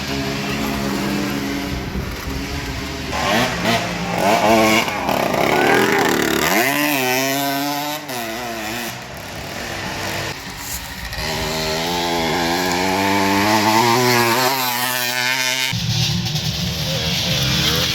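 Small two-stroke racing motorcycle engines running at high revs, their pitch rising and falling as they accelerate and shift. Several engine notes overlap at times.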